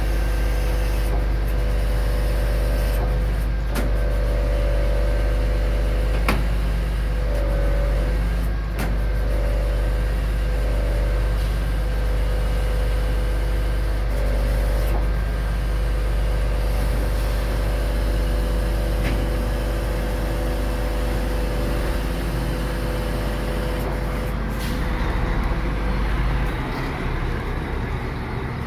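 Scania R500 truck's V8 diesel running steadily under load, with a whining hum above it that shifts in pitch now and then, as it does when the engine drives a Palfinger loader crane's hydraulics. A few sharp clicks are heard in the first half. Near the end the engine note drops.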